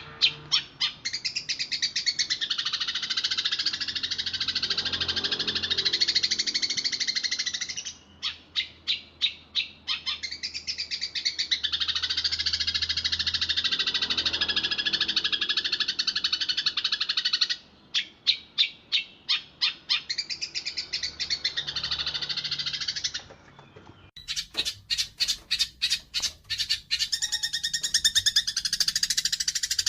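Eurasian tree sparrows chattering agitatedly while fighting: dense, high, overlapping chirps. Three times the chatter breaks into runs of separate sharp chirps at about three to four a second, the last run near the end.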